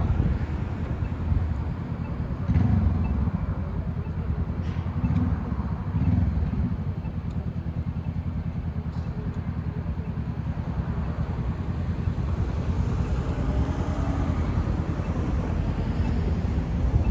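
Road traffic passing: a steady low engine and tyre rumble, with a few louder swells as vehicles go by.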